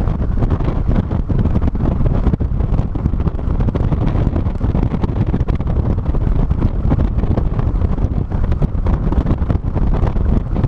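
Heavy wind buffeting on a trunk-mounted GoPro's microphone on a moving 2006 NC Mazda Miata: a loud, steady rumble with rapid flutter that covers the car's own road and engine sound.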